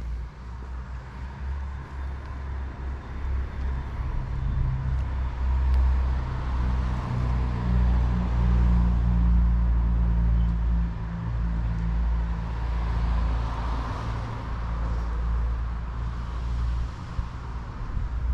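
A motor vehicle's engine running close by, a low rumble that swells over the first several seconds, then holds and eases slightly near the end.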